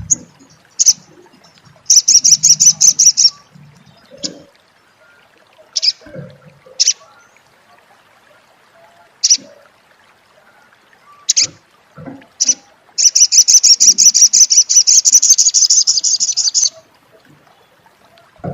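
Crimson sunbird (sogok ontong) calling: sharp single high chirps here and there, and twice a loud, rapid chattering trill, the 'crecet' call, the second lasting nearly four seconds.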